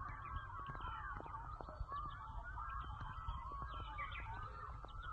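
Faint chirping of many birds, short wavering calls overlapping throughout, over a low background rumble.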